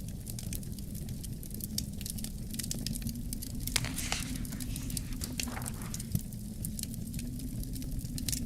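Wood fire crackling in a fireplace: many small, sharp pops scattered irregularly over a low, steady rumble, with a short louder hiss about four seconds in.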